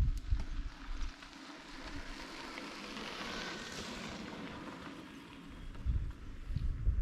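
Wind buffeting the microphone in low rumbling gusts near the start and again near the end. Between them a rush of noise swells and fades.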